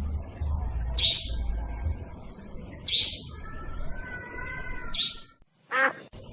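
Recorded lure calls of a cabak (nightjar): a sharp, high call slurring downward, repeated about every two seconds. Between calls another bird gives a longer whistled phrase, and near the end a quick falling series of notes follows a brief dropout.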